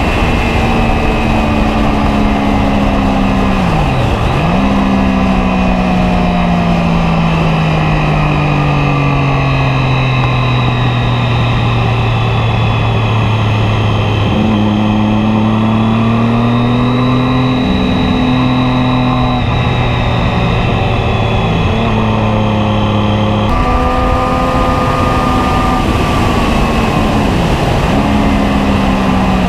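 Car engine driven hard on a race track, its revs climbing and falling through gear changes over steady road noise. There is an abrupt jump in the engine note about three-quarters of the way through.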